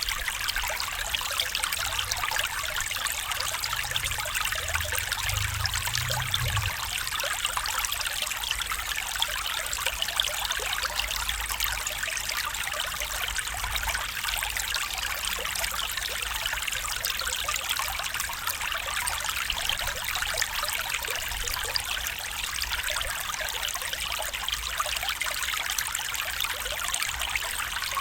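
Stream flowing steadily: a continuous trickling, splashing rush of water.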